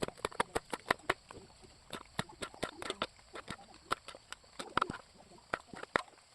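Knife chopping on a cutting board in quick, irregular strokes, about four or five a second.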